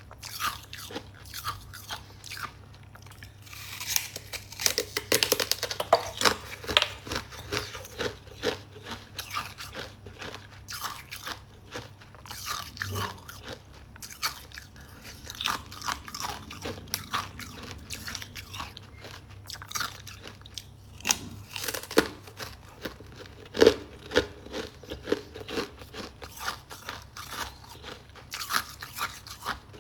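Close-up crunching and chewing of crisp freezer frost: irregular sharp crackles as the ice is bitten and crushed between the teeth, in clusters with short lulls.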